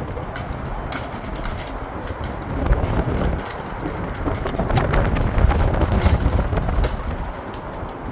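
Snowstorm wind rushing and buffeting the microphone, swelling louder in the middle, with many small scattered ticks.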